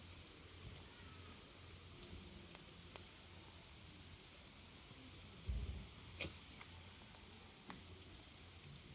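Faint high-pitched insect trilling, repeating in pulses about once a second. About halfway through there is a low thump, followed shortly by a sharp click, the loudest sound here.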